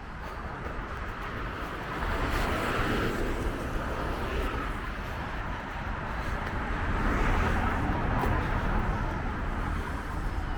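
Road traffic going by: vehicles passing, the sound swelling about two seconds in and again around seven seconds in.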